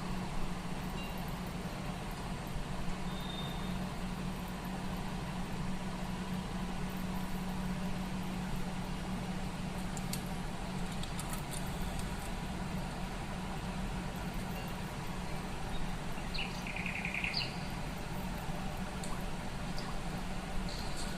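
Steady low background hum with a few faint light clicks about halfway through and a short high chirp later on.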